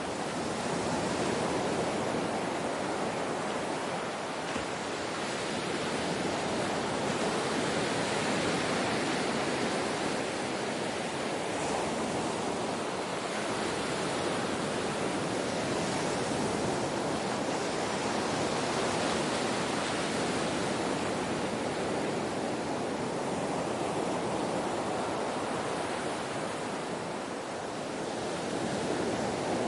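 Ocean waves washing on a shore: a continuous surf rush that swells and eases gently, with no distinct breaks.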